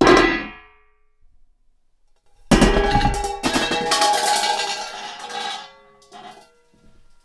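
Metal cookware struck, clanging: one strike that rings out in under a second, then after about two seconds of quiet a second clang whose ringing tones hang on for about three seconds, followed by a few light taps.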